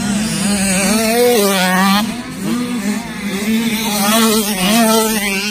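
Dirt bike engines revving on a motocross track, their pitch rising and falling again and again as the throttle opens and closes and the gears change.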